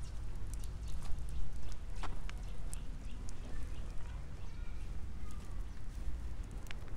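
Outdoor ambience heard while walking: scattered light clicks and taps over a steady low rumble, with a few faint short chirps.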